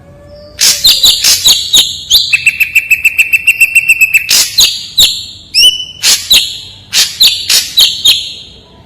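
Ashy drongo singing loud, sharp, clear notes: a string of whistled calls, then a fast rattling run of about ten notes a second, then more spaced-out notes before it stops near the end.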